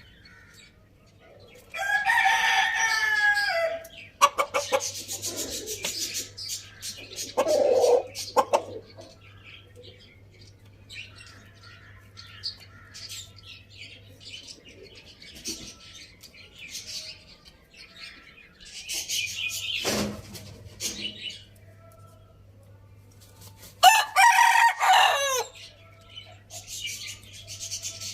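A rooster crowing twice, once about two seconds in and again near the end, each crow about two seconds long. Chickens cluck in between.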